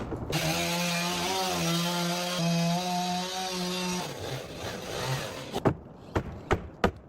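A power saw running and cutting wood for about four seconds, its motor giving a steady hum, then dying away into quieter rasping, with a few sharp knocks near the end.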